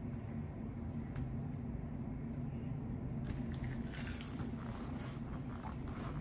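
Close-miked chewing and eating mouth sounds, with a few faint clicks at first and then a dense run of wet clicks and smacks from about three seconds in, over a steady low hum.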